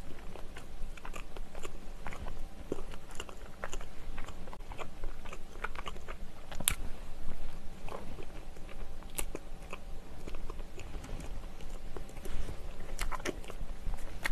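Close-up chewing of soft brioche bread filled with cream cheese and blueberries: wet mouth clicks and smacks at an irregular pace, with a few sharper clicks.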